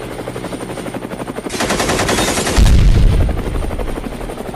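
A train passing close: a fast, even thudding rhythm, swelling with a burst of hiss about a second and a half in and a heavy deep rumble near the middle, then easing off.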